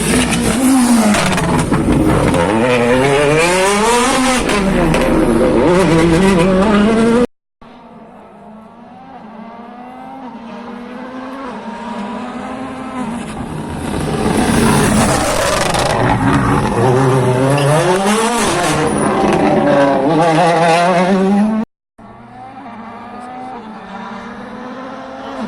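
World Rally Cars on a rally stage, engines revving hard up and down through gear changes as they drive past. The sound cuts off abruptly twice; after the first cut a car approaches from quieter to loud.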